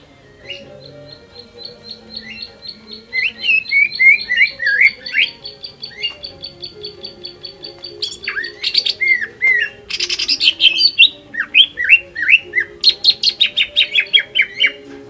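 Green leafbird (cucak ijo) singing a lively, varied song. It starts with scattered whistled notes, then strings fast chirps and sliding phrases together, and gets louder from the middle on. It ends in a rapid, evenly spaced trill. Faint background music plays underneath.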